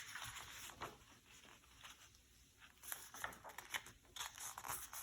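Faint, scattered paper rustling from a picture book's pages being handled and turned.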